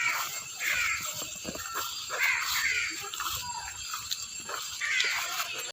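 Harsh bird calls, repeated several times, over a steady high-pitched hiss.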